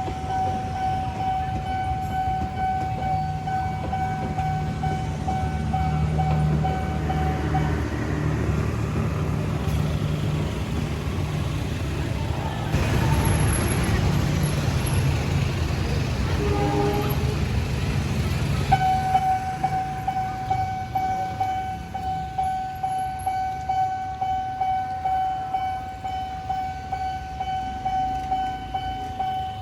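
Railway level-crossing warning alarm sounding a steady electronic tone while a train rumbles across the crossing. The alarm drops out for about ten seconds as the train is loudest, with a short horn toot near the middle, then sounds again.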